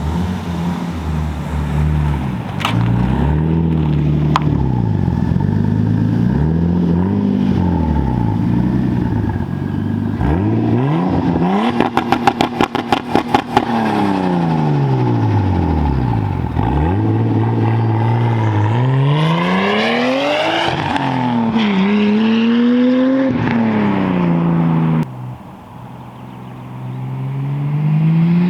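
Nissan Skyline R34 GT-T's tuned, turbocharged RB25 straight-six revving hard through the gears, its pitch climbing and dropping as it accelerates and passes. About twelve seconds in, a rapid stuttering turbo flutter on lift-off, from the blocked-off blow-off valve. Near the end the engine drops away and then climbs in pitch again.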